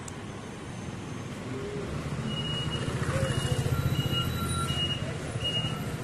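City bus engine running and growing louder about two seconds in as the bus pulls away, heard from inside the bus. A short high beep repeats about once every three-quarters of a second from a little after two seconds in.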